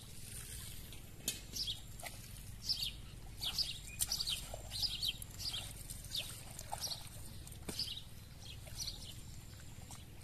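Small birds chirping repeatedly in short, falling calls over a low, steady background rumble.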